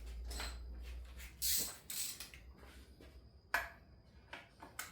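Hand tools clinking and knocking on metal while bolts are worked out of a car's power steering pump: a few light metallic clicks, two short scraping hisses about a second and a half and two seconds in, and a sharp click about three and a half seconds in.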